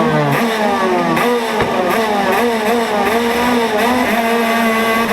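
Rental go-kart engine running under the driver, its pitch falling over the first second, then rising and dipping as the throttle is worked.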